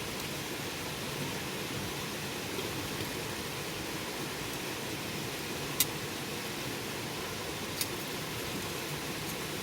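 Wood fire burning with a steady hiss, broken by two sharp crackling pops, the louder one about six seconds in and another about two seconds later.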